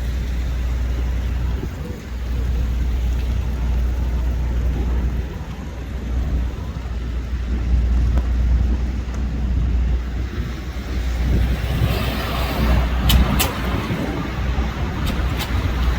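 Road traffic on a wet road over a steady low rumble; about twelve seconds in the tyre hiss of a passing vehicle swells up, with a few sharp clicks near the end.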